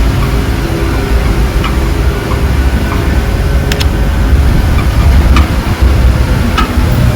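Jeep-pulled tour tram riding through a cave: a steady low engine rumble with a few clicks and rattles.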